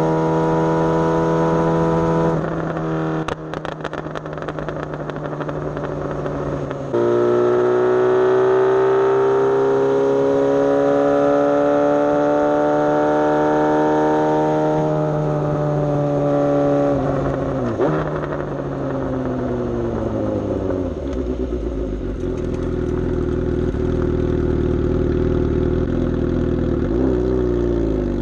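Suzuki GSX-S750 inline-four engine under way: its note drops and goes quieter about two seconds in, comes back loud a few seconds later and climbs steadily in pitch as it accelerates, breaks off sharply about eighteen seconds in, then falls in pitch as the bike slows, rising again near the end.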